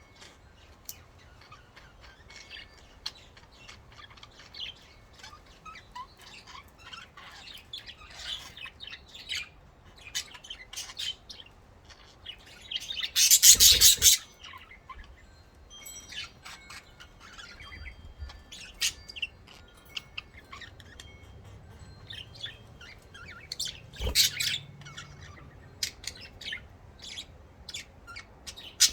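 Pet budgerigars chirping and chattering in quick, short high calls throughout, with a much louder harsh burst lasting about a second and a half about halfway through and a sharp click later on.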